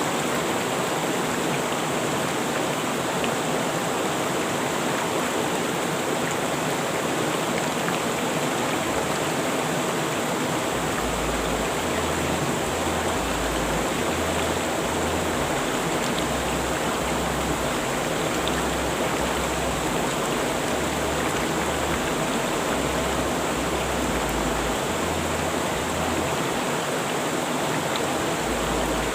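River water rushing steadily, a constant even roar of flowing water.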